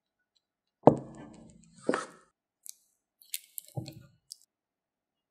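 A sharp knock about a second in and a second one a second later, each with a short ringing decay, followed by a few light clicks and a softer thud.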